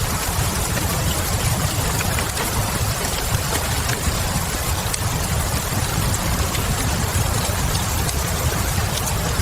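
Steady rain mixed with a wood fire crackling in a fireplace: an even hiss with a deep steady rumble underneath, dotted with small faint crackles.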